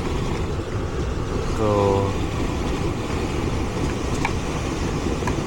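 HVAC system's blower fan running, a steady low rumble, with a couple of faint short ticks near the end.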